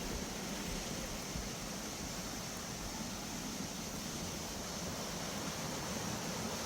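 Steady rushing of a mountain stream flowing over rocks, an even wash of water noise.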